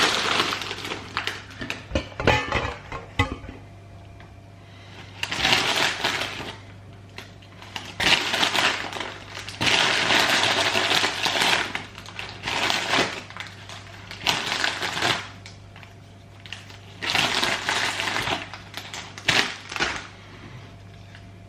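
Hand-cooked crisps and their packet crinkling and crunching as they are pushed into a sandwich, in repeated bursts of a second or two.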